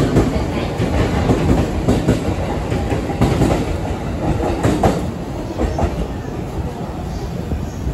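JR East E257 series 5000-番代 electric limited express train running out of the station, its cars passing with wheels clacking over rail joints and points. The noise eases off after about five seconds as the last car pulls away.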